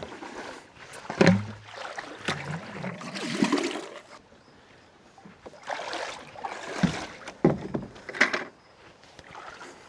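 Gear being handled in and against a canoe: irregular knocks, clunks and rustling, with a few hollow thumps on the hull and some water noise.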